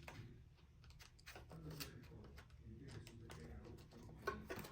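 Faint rustling and light clicks of paper cash envelopes being handled and flipped through, with one sharper tick about four seconds in.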